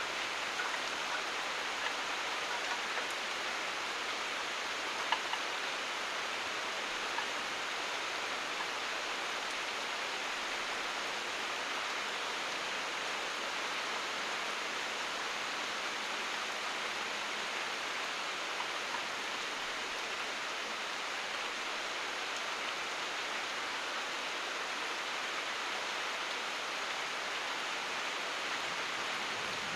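Steady rain falling, an even hiss with a few sharper drop hits, the loudest about five seconds in.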